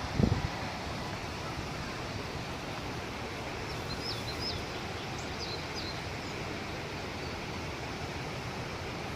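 Steady, even rush of water from a large waterfall. A bird chirps a few times about four to five seconds in, and there is a brief low thump at the very start.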